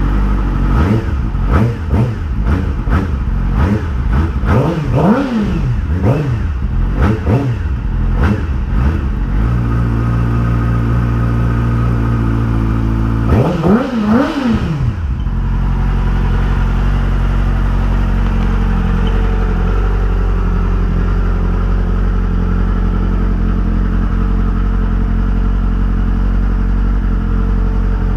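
Loud 2008 Yamaha R6 inline-four engine revved in a string of quick throttle blips, each note rising and falling, then settling to a steady idle. One more rev comes about halfway through before it idles again.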